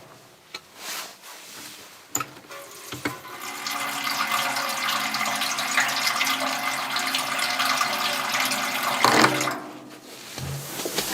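Water pouring steadily into a container for about five seconds, then stopping.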